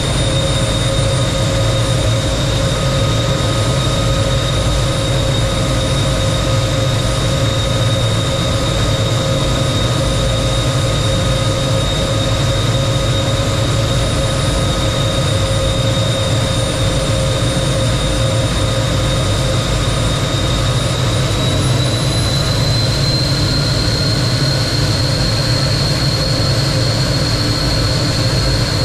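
T-33 jet trainer's turbojet engine running steadily, heard from on board with a constant rush of engine and air noise and a high whine. The whine rises a little in pitch about 22 seconds in.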